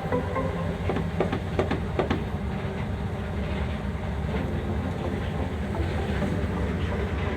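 Water-jet boat engine running steadily with a deep rumble, with a few sharp metallic clicks and knocks in the first couple of seconds.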